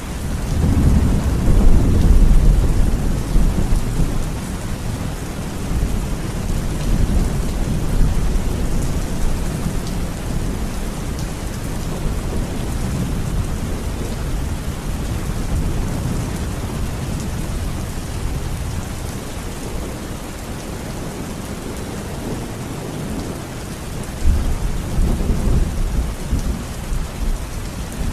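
Thunderstorm: heavy rain falling steadily with low rolling thunder. A long, loud rumble comes in about a second in and fades over a few seconds, and a second rumble comes near the end.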